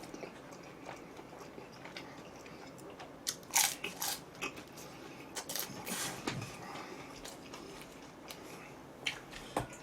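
Close-miked eating of pizza: biting and chewing, with a few crunchy bites in small clusters.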